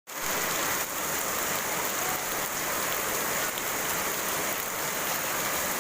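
Rain falling steadily, an even hiss of drops striking surfaces, with a few faint ticks of single drops.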